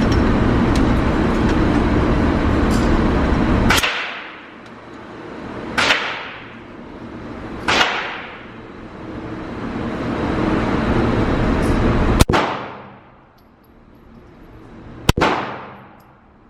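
Five single 9mm pistol shots from a Glock 17 Gen4, fired at uneven intervals, each with a short echoing tail. The first comes after a few seconds of loud steady background noise.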